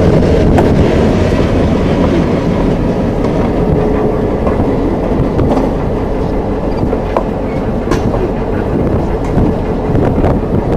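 Railroad cars rolling past steadily, with scattered sharp clicks of wheels crossing rail joints.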